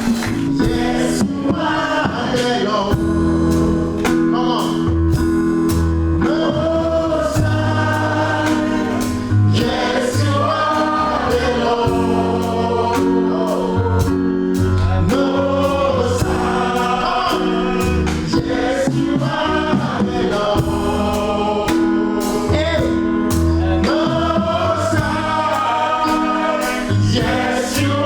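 Gospel choir singing live with band accompaniment: steady bass notes and a regular drum beat under the sung lines.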